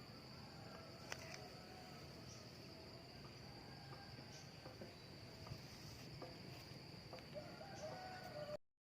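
Faint, steady, high-pitched insect drone, with a few faint short chirps and clicks. It cuts off abruptly near the end.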